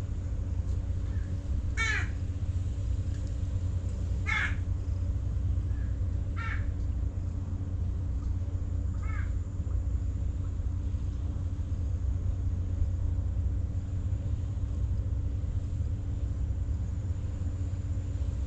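A bird calls four times with harsh caws, about two seconds apart, the last two fainter, over a steady low rumble.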